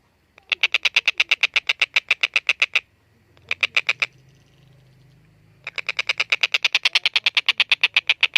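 Tengkek buto (collared kingfisher) giving its loud chattering call: fast series of sharp 'kek' notes, about nine a second, in three runs, the last one long and continuing.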